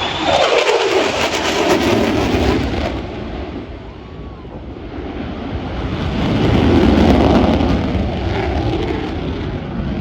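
Airplane flying low past the crowd, its engine sound dropping sharply in pitch as it goes by. It fades, then swells loud again about two-thirds of the way through as it comes around.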